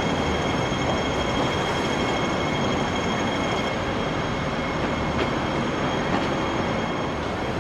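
Hong Kong double-decker tram running on its tracks: a steady rumble with a thin, steady high-pitched whine over it.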